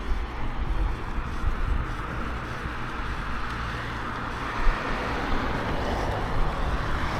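Mountain bike rolling down a dirt forest trail: wind rushing over the microphone with a steady tyre rumble, and one sharp knock about four and a half seconds in.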